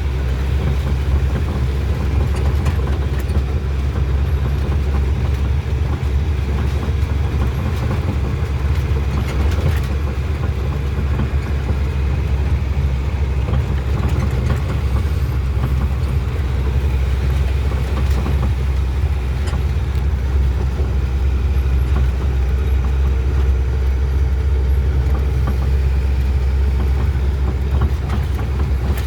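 Truck running on the road: a steady, loud low engine rumble with road noise, holding even throughout.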